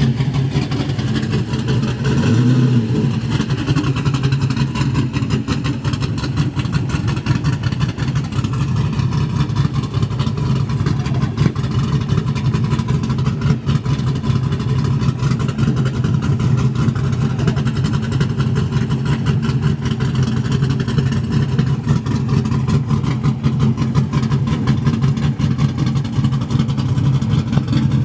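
Drag-race car engine running at a steady, loud, choppy idle, with a short rev about two seconds in and the revs starting to climb again at the end.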